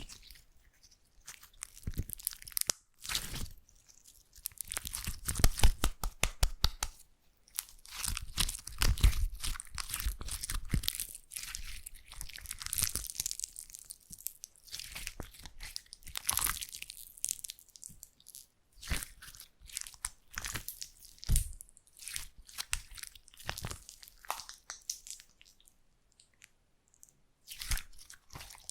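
Slime being squeezed and stretched by hand close to the microphone. It makes bursts of rapid crackling and popping clicks, with brief pauses between them.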